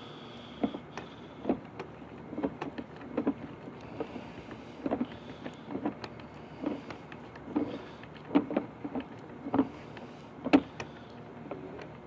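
Sewer inspection camera and its push cable being fed through a drain pipe, giving irregular knocks and clicks, about one or two a second, over a steady background hum.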